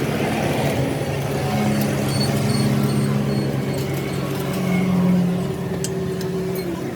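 A truck engine running steadily, a low even hum that swells slightly about five seconds in.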